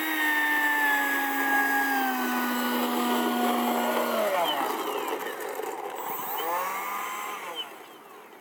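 Electric ducted fan of a Freewing F/A-18 90 mm RC jet whining at high throttle, holding a steady pitch that sags slightly for about four seconds. The whine then drops off, swoops up and down in pitch with throttle changes, and fades near the end.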